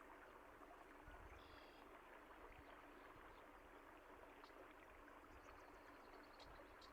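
Faint, steady rush of flowing water from a stream, with a few brief, high bird chirps about a second and a half in and again near the end.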